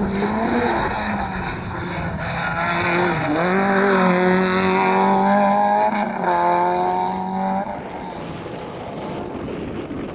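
Rally car engine at full throttle going past. Its pitch climbs about three seconds in and holds high with a brief dip near six seconds, like a quick upshift, then it fades away.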